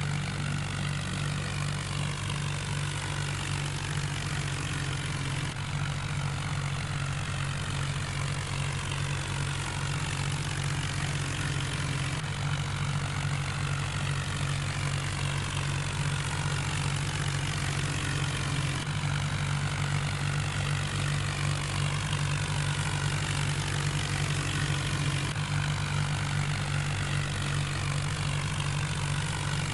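Diesel tractor engine running steadily with a deep, even drone.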